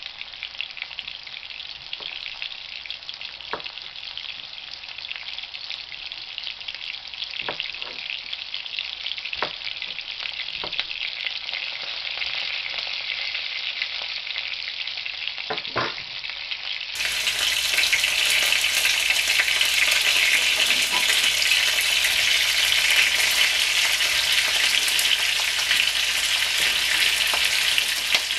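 Sliced chicken sausage sizzling steadily in oil in a wok, with a few sharp knife taps on a cutting board. About two-thirds of the way through the sizzle becomes louder and brighter.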